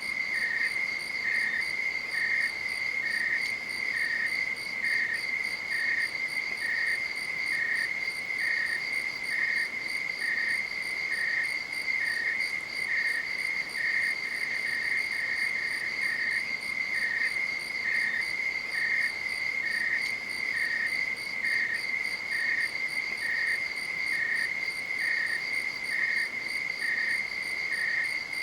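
Night insects singing: one keeps up a steady, unbroken high trill, while another, slightly lower in pitch, chirps evenly about once a second.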